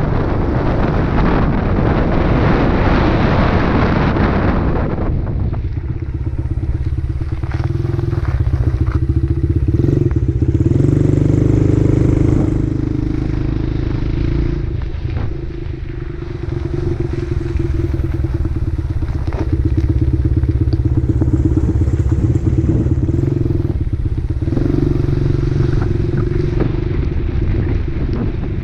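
Dirt bike engine running while riding, its note rising and falling several times with the throttle. For the first five seconds or so, wind rushes over the microphone and nearly covers the engine.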